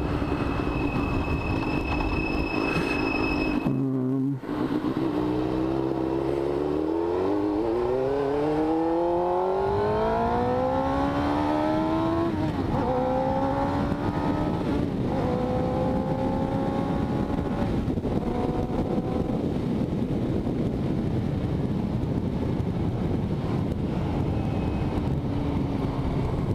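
Motorcycle engine pulling away and accelerating through the gears. Its pitch climbs, then drops at upshifts about twelve, fifteen and eighteen seconds in, before settling to a steady cruise, with wind noise throughout.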